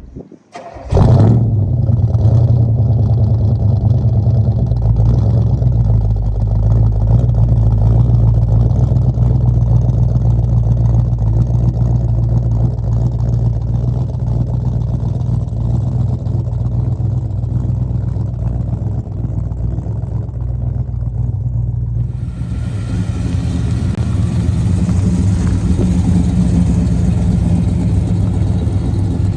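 Car engine starting up about a second in and then running steadily with a deep low note. Near the end the sound changes abruptly and a hiss is added alongside the engine.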